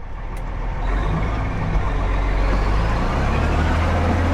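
Heavy vehicle's engine running steadily with a deep, low hum, growing louder over the first second and then holding.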